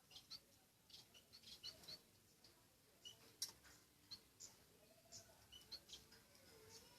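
Small bird giving faint, scattered short high-pitched chirps, a dozen or so spread irregularly over several seconds.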